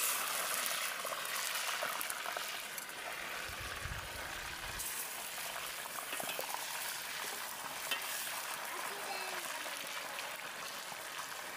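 Chicken pieces frying in hot oil in a pan, giving a steady sizzle.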